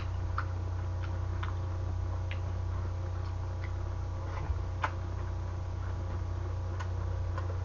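Eating boneless braised pork trotter (jokbal): wet chewing with scattered, irregular sharp mouth clicks and small chopstick taps. A steady low hum runs underneath.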